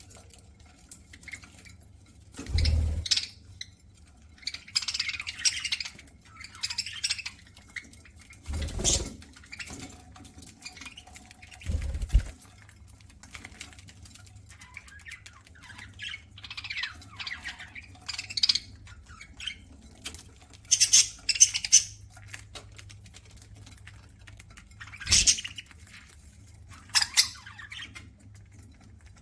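Pet budgerigars chirping and squawking in short bursts over soft pattering of seed pecking and nibbling. A few dull low thumps are scattered through.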